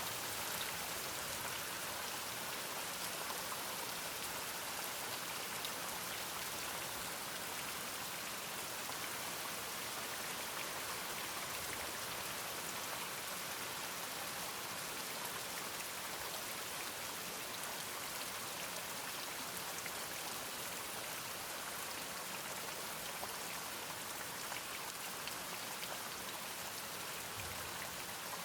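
Steady rain falling, a dense even patter of drops that keeps up without pause.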